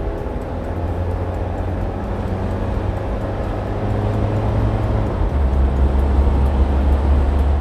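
Cartoon vehicle engine sound effect: a steady low engine rumble, its pitch shifting slightly about five seconds in.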